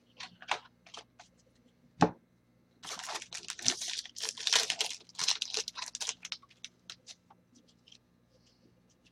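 Trading-card pack wrapper being torn open and crinkling for about three seconds. It comes after a few light clicks and one sharp knock about two seconds in.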